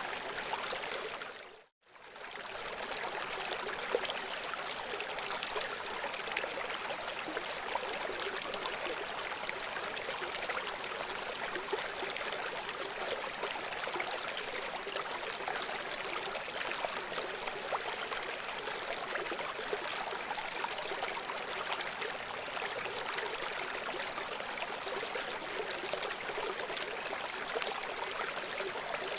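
Running stream, water rushing and babbling steadily over rocks; the sound cuts out briefly for a moment about two seconds in.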